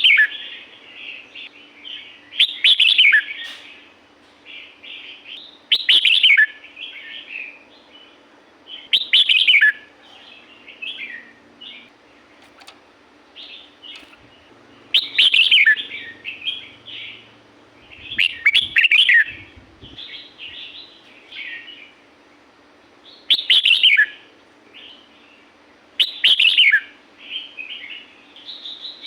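Red-whiskered bulbul singing: loud, short whistled phrases that fall in pitch, repeated every three seconds or so, with softer chattering notes in between.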